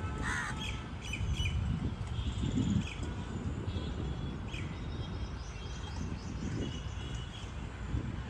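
Outdoor birds calling: a harsh call just after the start, then scattered short chirps, over a steady low rumble.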